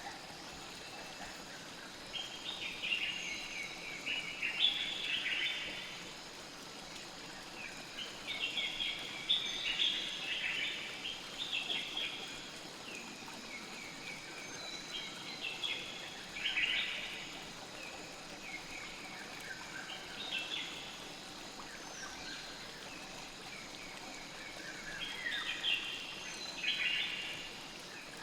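Nature ambience: a steady hiss of flowing river water, with bursts of bird chirping that come and go every few seconds.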